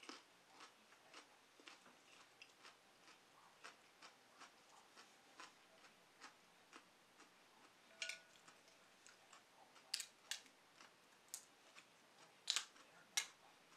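Chewing with soft wet mouth clicks about twice a second, then louder, sharper clicks and taps of mussel shells being handled and pried apart over the last few seconds.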